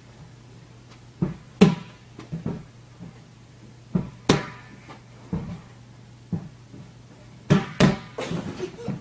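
A series of irregular knocks and thumps, about a dozen, unevenly spaced, with the sharpest ones about one and a half seconds in and again about four seconds in, and a quick cluster near the end.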